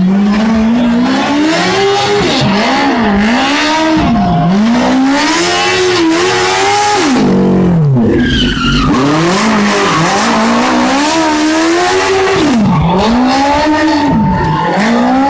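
Smart car doing stunt driving: its engine revs up and falls back again and again, while the tyres squeal and skid without a break.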